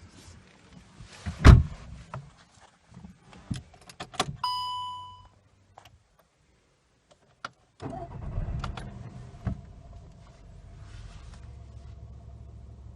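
Clicks and a loud thump, then a single electronic chime that dies away. After a short silence, about eight seconds in, a car engine cranks, catches and settles into a steady idle.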